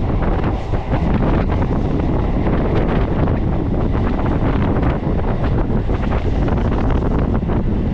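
A local train running at speed: a steady rumble and rush of air buffeting the microphone, with frequent irregular clicks and rattles from the wheels and carriage.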